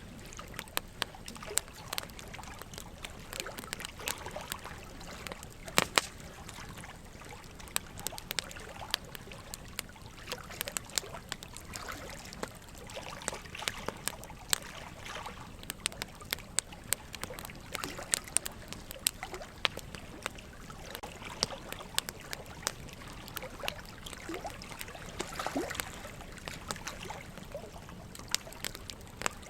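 Burning wood logs crackling and popping in a fireplace, with many irregular sharp pops, over a steady trickling water sound.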